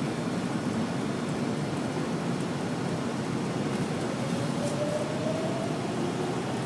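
AnsaldoBreda A650 subway train running through a tunnel, heard from inside the lead car: a steady rumble of wheels on rail. A faint whine rises in pitch from about four seconds in.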